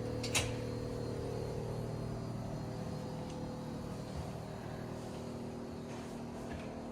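A steady hum with several held tones, broken by a single sharp click about half a second in.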